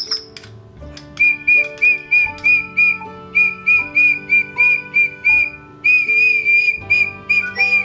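A toy bird whistle blown in a run of short, high tweets at one pitch, about three a second, with a longer held note about six seconds in.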